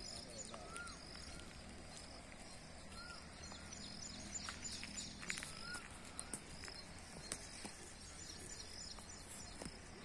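Faint morning outdoor ambience with birds calling: repeated short high chirps throughout and a few short arching whistled notes, over a low steady background hum, with a few soft clicks about halfway through.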